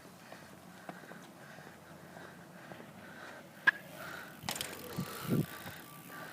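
Bicycle rolling, with faint repeated ticking and rattling. A sharp click comes a little past halfway, followed by a short clatter.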